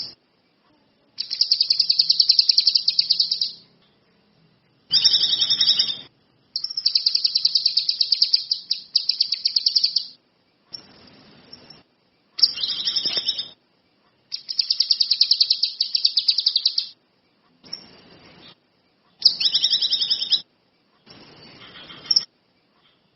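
Kinoi songbird singing in full voice: a run of high, rapid trilled phrases, each one to three seconds long, with short pauses between them.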